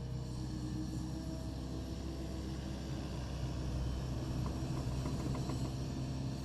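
Takeuchi TB260 excavator's diesel engine running steadily, with a few faint light clicks partway through.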